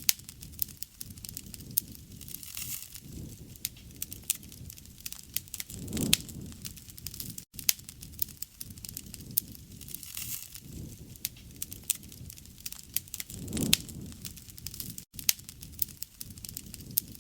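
Wood fire crackling steadily with frequent sharp pops and snaps over a low, soft rush of flame that swells every few seconds. The sound breaks off for an instant twice.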